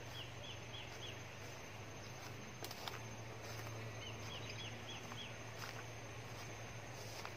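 A bird calling twice, each time a quick run of four or five short high notes, over a steady low hum and a few faint clicks.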